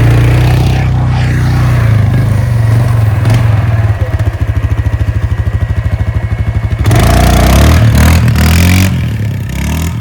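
Motorcycle engine running during a wheelie attempt. It pulses rapidly and unevenly for a few seconds, revs up hard about seven seconds in, then fades away.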